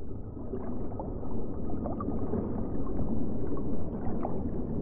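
Muffled underwater ambience: a low, bubbling rumble, with small faint chirps and ticks scattered through it.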